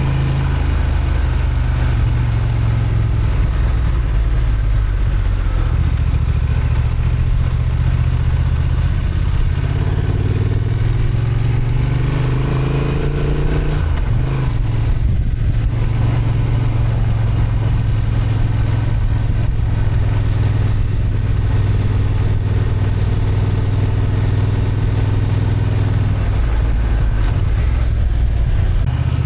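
Honda XL750 Transalp's parallel-twin engine, restricted to 35 kW, running under load on a climb. Its pitch rises from about ten seconds in, drops sharply around fourteen seconds in as the throttle eases or a gear changes, then holds steady.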